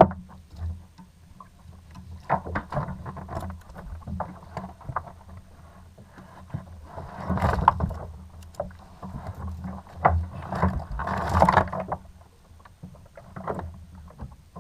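Water and handling sounds aboard a plastic Hobie Outback kayak: irregular knocks and clicks, with two longer splashy stretches about seven and ten seconds in, over a steady low rumble.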